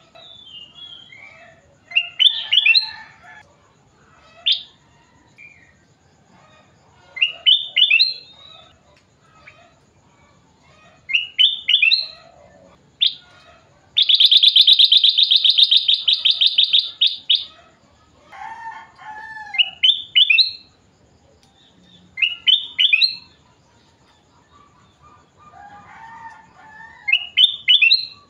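A kutilang emas bulbul singing: short bright phrases of quick notes repeated every few seconds, with softer lower warbles between. Around the middle comes a loud, rapid trill lasting over three seconds.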